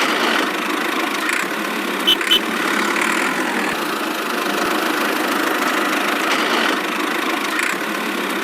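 A small motor of a miniature model construction machine running steadily, with two short clicks about two seconds in.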